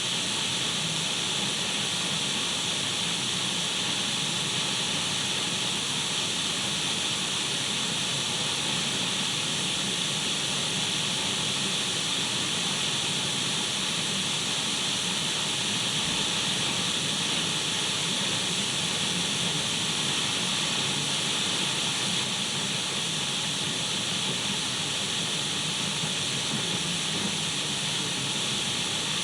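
Radio static: a steady white-noise hiss, brightest high up, with a softer low rush beneath it.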